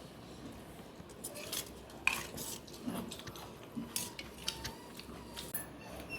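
Scattered light clinks and scrapes of utensils against a dish during a meal, the sharpest clink about two seconds in.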